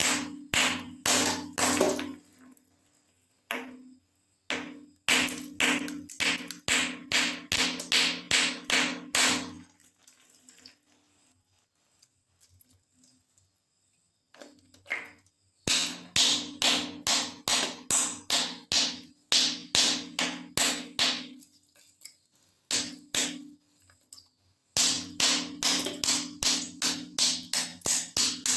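Frozen ice balloons being struck in quick runs of sharp, repeated knocks, about three a second, with pauses between the runs.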